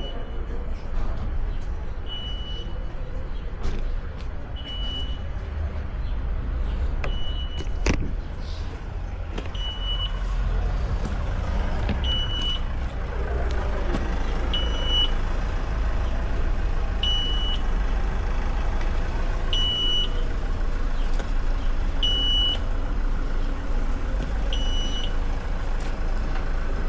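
Car driving on the road: a steady low rumble of engine, tyres and wind picked up by a camera mounted on the bonnet, rising for a moment about halfway through. A short high beep repeats about every two and a half seconds, and there is a single sharp knock about a third of the way in.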